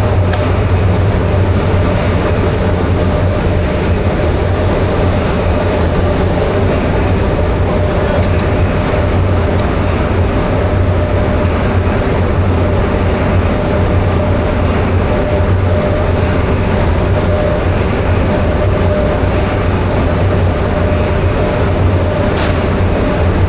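Diesel generator engine running steadily on its trial run after a major overhaul, with a loud, even low drone.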